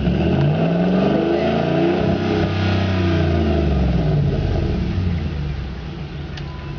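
2006 Dodge Ram 1500's 5.7 L Hemi V8 through an aftermarket dual exhaust, revved once: the pitch climbs for about two and a half seconds, then falls back to a steady idle.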